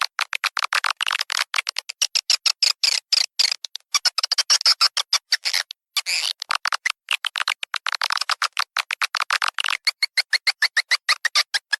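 Swiftlet lure-call recording: dense, rapid chirping twitters of swiftlets in quick pulses, several a second, with brief gaps. This is the kind of track played at a swiftlet house's entrance hole and nesting rooms to attract swiftlets.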